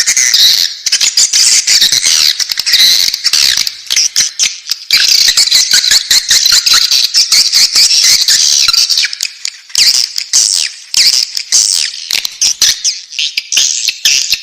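Swiftlet chicks calling in the nest: a dense, continuous chorus of high-pitched squawking chirps mixed with rapid clicking.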